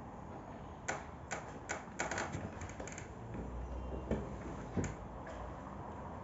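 A run of sharp, irregular clicks and taps, most of them close together about a second in, then two single knocks later, over a steady background hiss.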